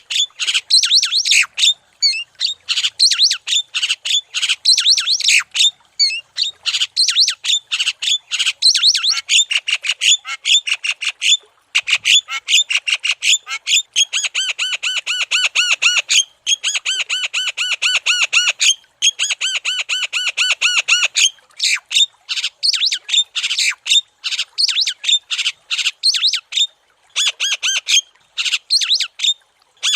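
Javan myna (jalak kebo) calling non-stop in fast, chattering series of harsh, squawky notes with brief pauses. In the middle come longer runs of rapid, evenly repeated notes.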